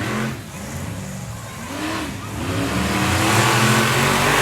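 Monster truck engines revving hard, their pitch rising and falling again and again, and growing louder about three seconds in.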